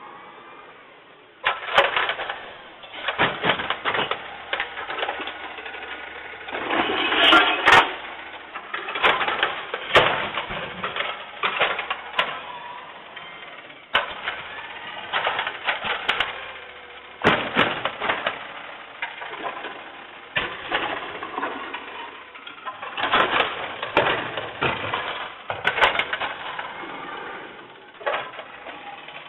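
Garbage truck at work: repeated knocks, rattles and bursts of clatter over a low engine hum.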